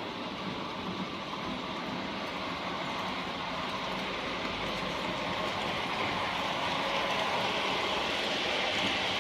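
Intermodal freight train hauled by two SBB Cargo Re 482 electric locomotives running by: a steady rumble and hiss of wheels on rail that grows slowly louder.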